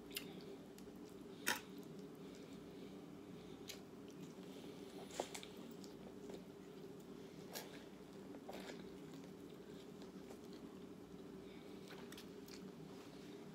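A person chewing food close to the microphone, with a few scattered sharp mouth or utensil clicks, over a steady low hum.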